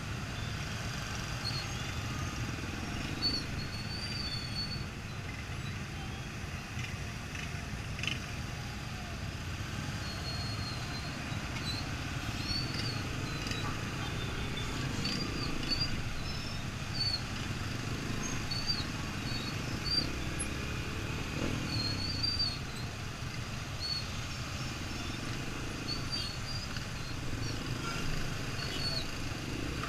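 Yamaha XTZ 125's single-cylinder four-stroke engine running with a steady low rumble, while birds chirp again and again over it.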